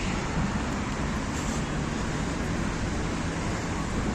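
Steady street traffic noise from passing road vehicles, with a constant low rumble.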